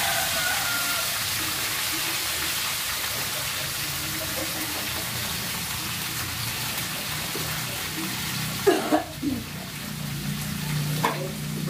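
Food frying in oil in a wok, a steady sizzling hiss. About three-quarters of the way in come a few quick clattering knocks, with another one near the end.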